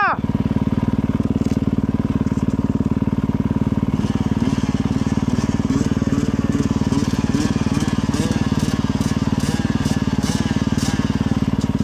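Motorcycle engine running steadily at an even speed, without revving.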